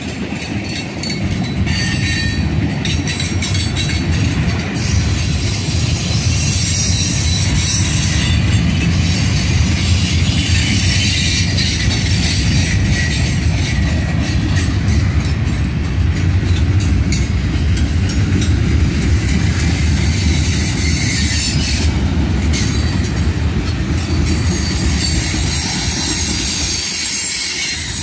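Norfolk Southern freight train's gondolas and covered hopper cars rolling past on steel rails in a steady, continuous rumble, with high-pitched metallic squeal from the wheels.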